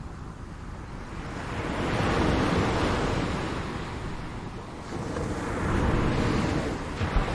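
Ocean waves washing onto a shore in a steady rush, surging twice: one wave builds about two seconds in and fades, and a second comes in about five seconds in and peaks near the end.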